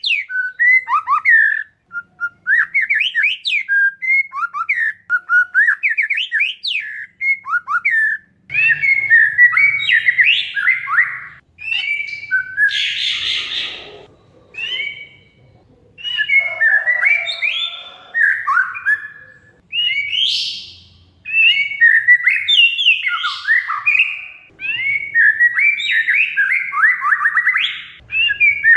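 Oriental magpie-robin (kacer) singing a fast, varied song of whistled notes, slurs and trills, broken about halfway by a harsh chattering burst.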